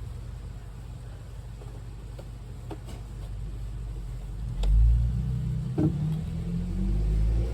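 Low rumble of a vehicle engine running off-mic, swelling louder about halfway through, with a few light knocks.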